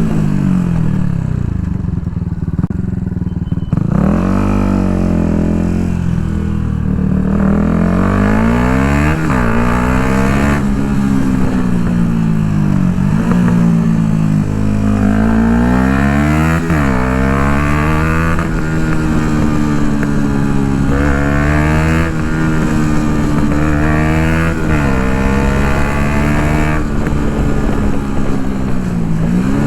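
Yamaha MT-125's 125 cc single-cylinder four-stroke engine running through an Akrapovic full exhaust. The revs climb and fall again and again, with a few quick, sharp jumps in pitch.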